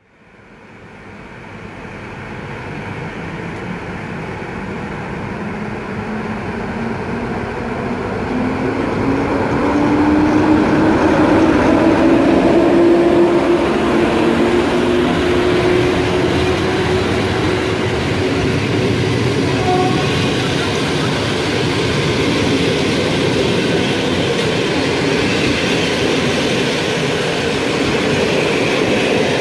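Passenger train hauled by an EP07P electric locomotive rolling past along the platform, wheels rumbling on the rails, louder over the first several seconds. A whine rises slowly in pitch through the middle as the train gathers speed.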